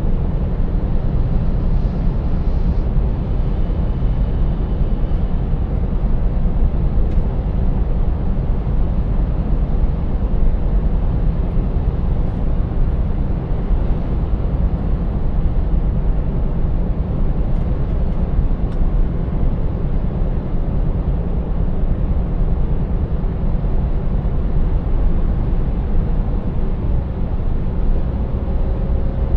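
Scania 590S truck's V8 diesel engine running steadily under way, with tyre and road noise: a constant deep rumble.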